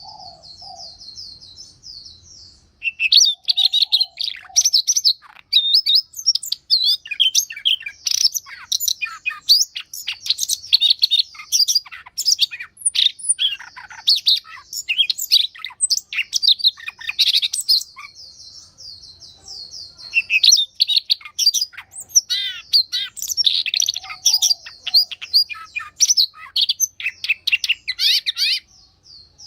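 Songbirds singing: rapid, varied high-pitched chirps and trills in dense runs, with a couple of brief lulls.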